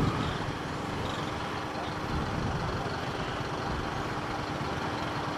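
Motorcycle riding steadily on the road: steady engine, wind and road noise, with a faint steady hum that drops away about halfway through.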